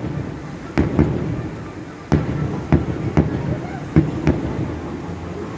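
Fireworks show: about eight sharp bangs of fireworks bursting at irregular intervals, over a low background murmur.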